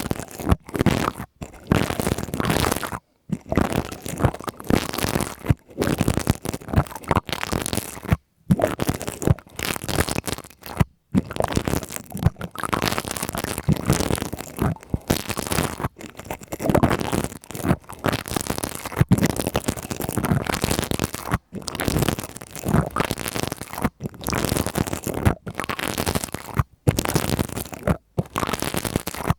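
Pipe cleaners rubbed and scratched against a microphone, a close, fuzzy scratching in irregular strokes with a few short pauses.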